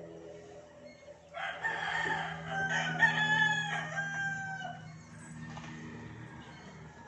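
A rooster crowing once: a single long crow of about three and a half seconds, starting about a second in, over a steady low hum.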